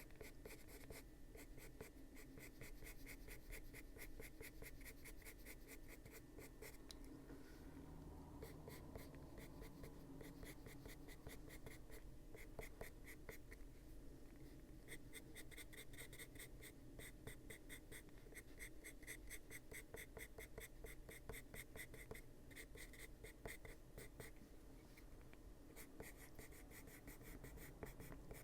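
Faint scratching of a Luminance coloured pencil shading on paper in runs of quick, short back-and-forth strokes.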